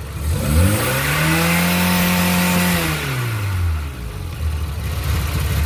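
VW Golf Mk1 engine revved once from idle. It rises over about a second, holds for a second and a half, then drops back to a steady idle, running smoothly and sounding very healthy.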